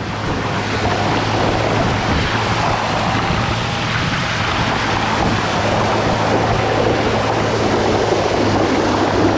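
UAZ off-road vehicle's engine running under load with a steady low drone, under a loud rushing noise that swells about a second in.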